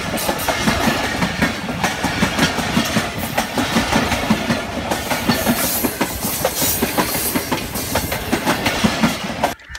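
Train passing close by: a steady rush of noise with wheels clattering over the rail joints, cutting off abruptly near the end.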